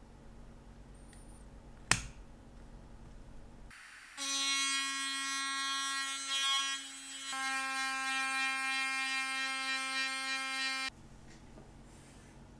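Electric micromotor handpiece spinning a watch chronograph pusher against abrasive paper to polish it: a steady high whine starts about four seconds in, dips briefly past seven seconds and cuts off abruptly near eleven seconds. A single sharp click comes about two seconds in.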